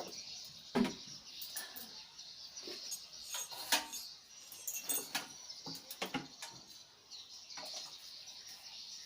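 Scattered light clicks and knocks at irregular intervals over a faint steady hiss.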